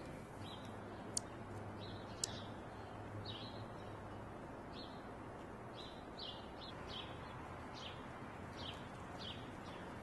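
A small bird chirping: a scattered series of short, high chirps over a steady hiss, with two sharp high ticks in the first few seconds standing out as the loudest sounds.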